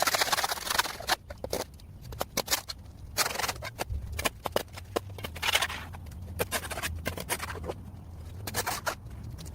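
Steel shovel scraping and digging into waterlogged mud and sediment: irregular scrapes and knocks, with a few longer scraping strokes.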